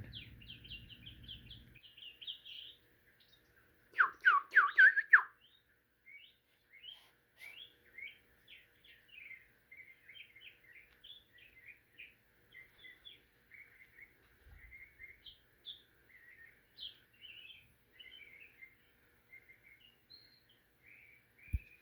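A songbird singing a long, chattering run of short, quick chirps and warbles, with a louder burst of sweeping notes about four seconds in.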